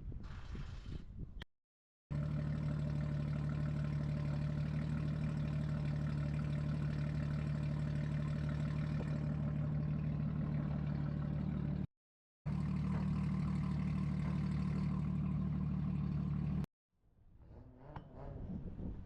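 An engine running steadily at a constant, even pitch with no revving, in two edited stretches cut off abruptly by silent gaps.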